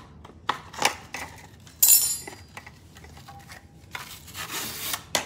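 Hard plastic parts of a Dyson V6 cordless vacuum being handled and worked at with a metal tool during disassembly: a few knocks and scrapes, a loud sharp scrape about two seconds in, and a longer rubbing scrape near the end finished by a knock.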